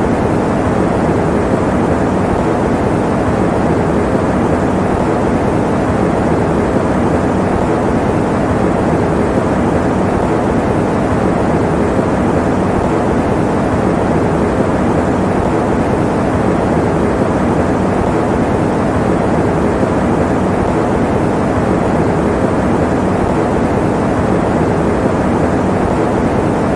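Electric fan running steadily, an even rushing noise with no change, weighted toward the low and middle range with little hiss up high.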